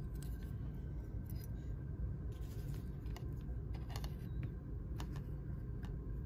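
Trading cards and pack wrappers being handled, with scattered light clicks and crinkles over a low steady hum.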